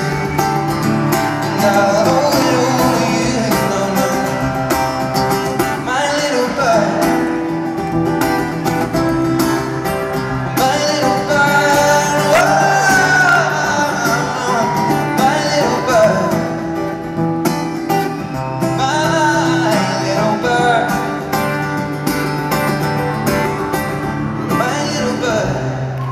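Live acoustic guitar strumming a steady rhythm, with a male singer's wordless vocal lines gliding over it every few seconds.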